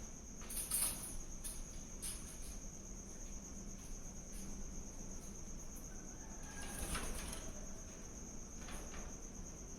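Crickets chirping in a steady, unbroken high trill, with a few brief higher chirps standing out, the strongest about a second in and again about seven seconds in.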